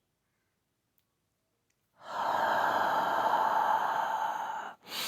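A long, forceful breathy exhalation through the mouth, a whispered healing sound of a breathing exercise, starting about two seconds in after dead silence. It stops briefly near the end and a second exhalation begins.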